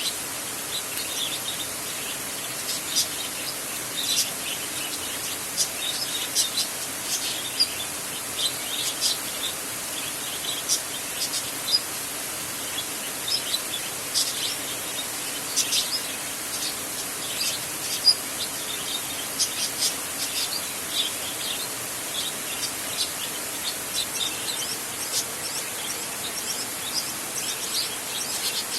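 Many birds chirping, short high calls coming several times a second over a steady hiss.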